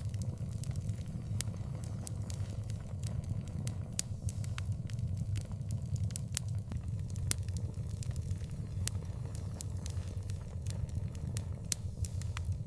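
Wood fire burning in an outdoor fireplace: frequent sharp, irregular crackles and pops over a steady low rumble of the flames.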